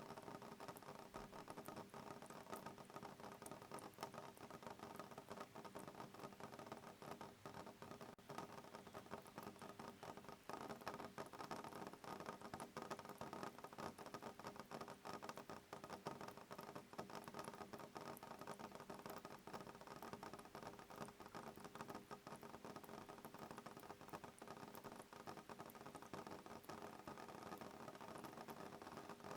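Soft rain pattering on a window pane: a steady, dense scatter of small drop ticks over a quiet hiss.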